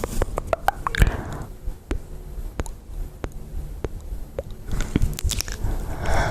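Close-miked ASMR mouth sounds: wet clicks and smacks, a quick cluster in the first second and a half, sparse in the middle, another cluster about five seconds in. Soft brushing swishes come near the start and the end.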